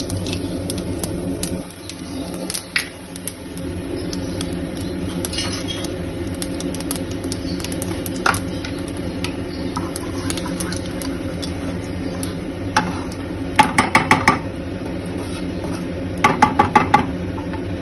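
Whole cumin seeds crackling in hot oil in a kadai, scattered pops over a steady low hum. Two quick runs of metal clinks against the pan come about 14 and 16 seconds in.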